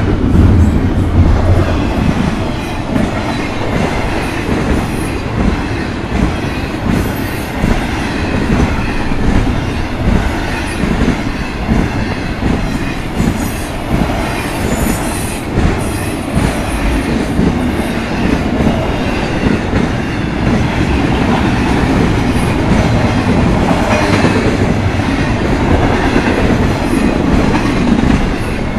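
Train cars rolling past close by, their wheels clattering steadily on the rails, with short high wheel squeals now and then.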